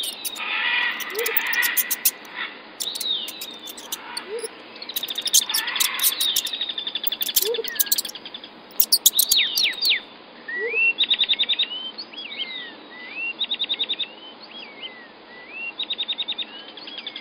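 High chirps with fast clicking for the first several seconds, then a bird calling: short rising chirps repeated about every second, alternating with brief rapid trills.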